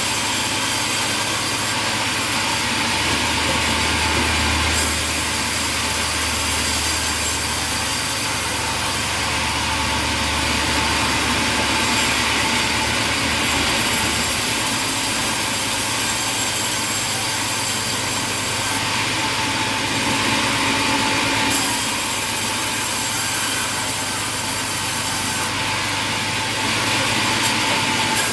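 Sawmill machinery running with a saw cutting through wood, a loud, steady mechanical noise. A deeper hum joins from about two seconds in and drops away about halfway through.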